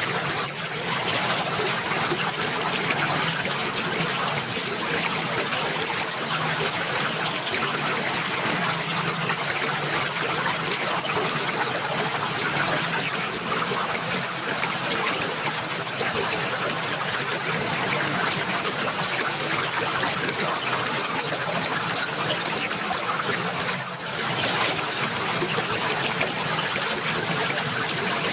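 Running water trickling steadily in an even, continuous rush, with a brief dip about a second in and again near the end.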